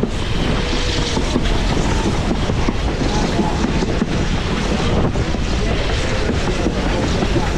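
Passenger train rolling along at speed, heard from on board: a steady rumble of wheels on rail with scattered knocks, and wind buffeting the microphone.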